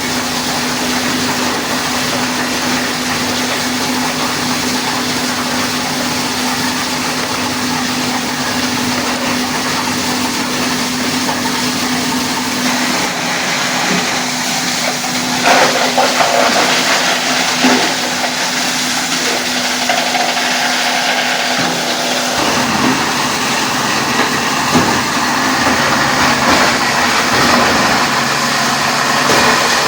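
Plastic recycling plant machinery running with a steady hum, with a few knocks near the middle. About three quarters of the way through, the machine sound changes and the hum drops out.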